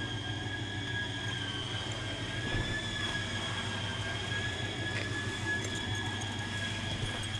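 A steady machine hum with a constant high-pitched whine over it, unchanging throughout.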